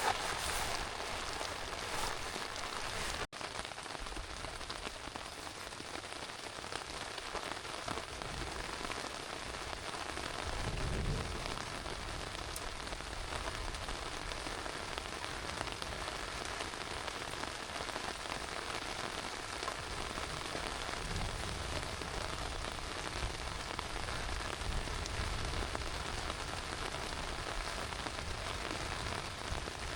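Heavy rain falling steadily, a continuous hiss of drops on a surface, with a brief low rumble about eleven seconds in.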